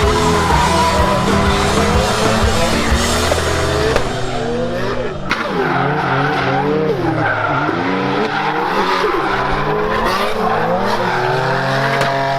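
The 1UZ V8 of a BMW E46 drift car revving up and down repeatedly while drifting, with tyre squeal, mixed with background music.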